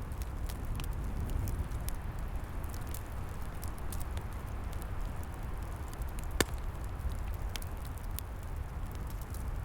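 Wood fire crackling, with many small sharp pops and one louder pop a little past halfway, over a steady low rumble.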